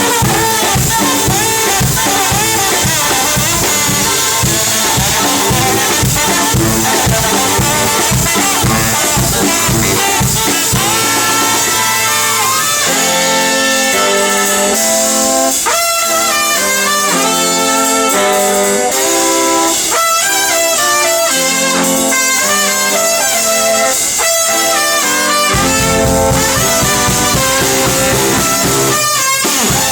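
Live brass band of horns and saxophones playing an upbeat tune over a drum kit. About twelve seconds in the drums drop out and the horns carry on alone, and near the end the drums come back in.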